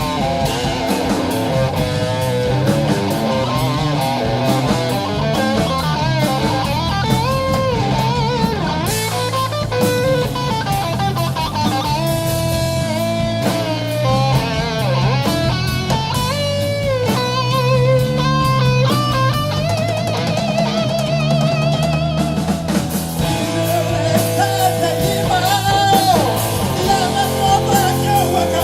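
Live rock band playing an instrumental passage: a lead electric guitar carries a wavering, vibrato-laden melody over bass and a drum kit.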